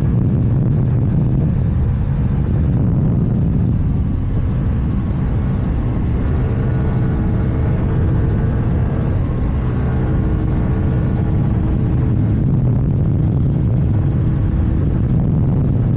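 KTM Duke 790 parallel-twin engine with an Akrapovic exhaust, running steadily as the motorcycle rides along at an even pace.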